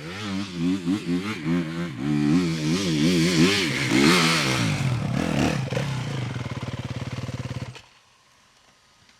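Dirt bike engine on a steep climb, the throttle worked on and off so the revs rise and fall repeatedly. The engine sound cuts off suddenly near the end.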